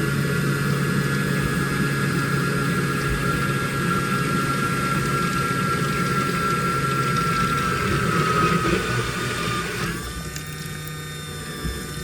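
Washing machine running: its motor whine slowly falls in pitch, then about ten seconds in the sound changes and drops in level to a quieter hum with water sounds.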